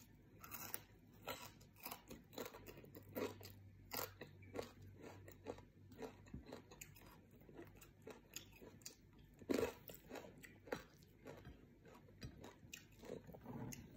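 A person chewing a mouthful of fried rice and crunchy fried anchovies: a faint, irregular run of crunches and mouth clicks, one louder crunch about two-thirds of the way through.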